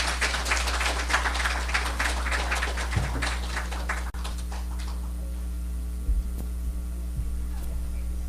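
Audience applauding, dying away about four or five seconds in, then a steady electrical hum with a couple of soft thumps.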